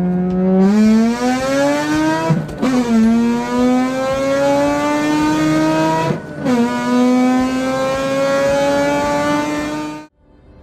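Mazda RX-8's 1.3-litre twin-rotor rotary engine accelerating through the gears. Its pitch climbs steadily, drops at two upshifts about two and a half and six seconds in, climbs again, then cuts off near the end.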